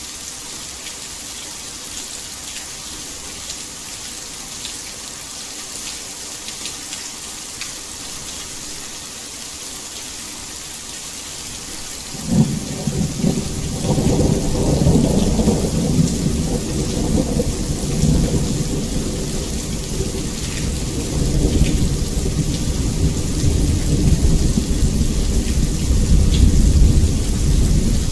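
Heavy rain falling in a steady hiss; about twelve seconds in, thunder breaks in suddenly and goes on as a long, loud low rumble over the rain.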